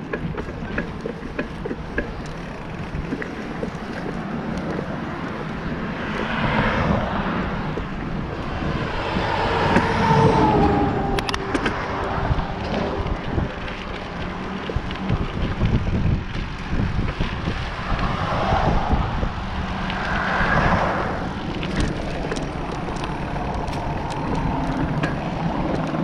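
Wind and road noise on a bicycle-mounted microphone while riding, with motor vehicles passing three times, one of them with a falling engine pitch as it goes by.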